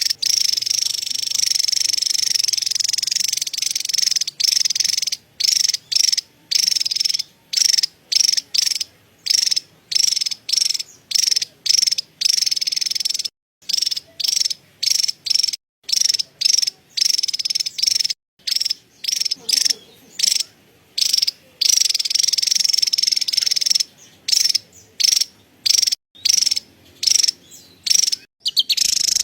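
Javan tesia giving its high-pitched, dry chattering call in many short bursts separated by brief pauses, with a few longer unbroken runs.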